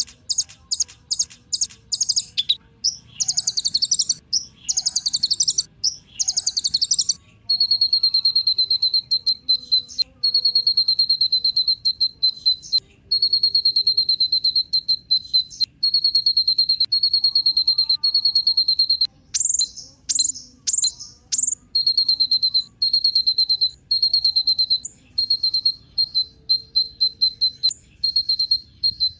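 Kolibri ninja, a small sunbird, singing. It opens with quick high chattering phrases separated by short pauses, then gives a long, fast trill held at one high pitch with brief breaks. A few sharper, higher notes cut in about twenty seconds in.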